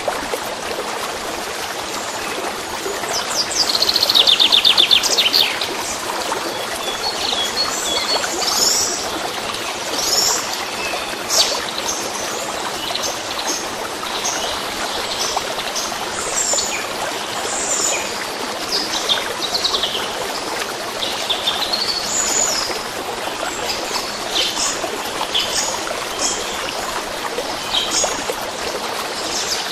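Songbirds chirping and singing over a steady trickling stream, with a fast trill about three to five seconds in.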